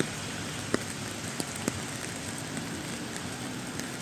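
Steady rain falling, with a few sharp drop ticks close by in the first two seconds.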